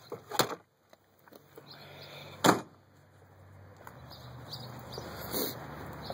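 A couple of light clicks, then one loud sharp clunk about two and a half seconds in, from the door of a Chevrolet Camaro Z28 being worked.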